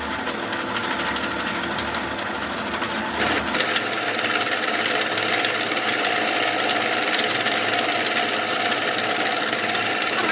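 A power machine in a workshop running with a fast, even rattle; about three and a half seconds in its sound changes, the low hum dropping out and the higher noise growing louder.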